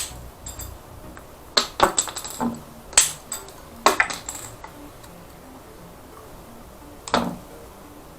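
A string of sharp clicks and clinks of small hard parts being handled, bunched between about one and a half and four and a half seconds in, with one more near the end.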